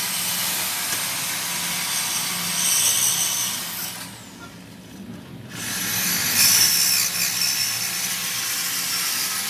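Power tool working on the car's exhaust in a shop, a continuous rasping, hissing noise that stops for about a second and a half around four seconds in, then starts again.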